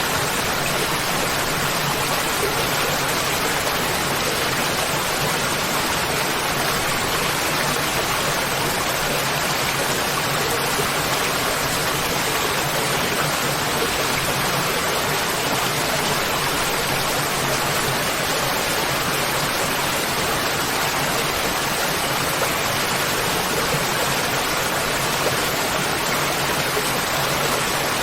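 Waterfall: a steady, dense rush of falling water with no breaks or changes.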